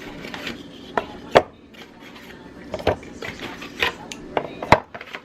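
Food containers being handled and set down in a refrigerator bin: a string of irregular knocks and clatters, about six sharp ones, the sharpest near the end.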